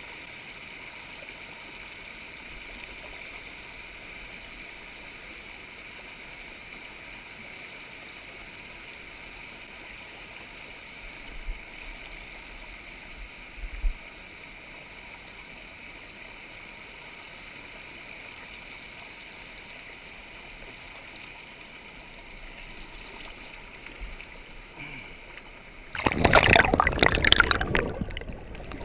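Creek water running steadily and faintly, with a couple of low thumps in the middle. Near the end, a much louder rush of noise breaks in.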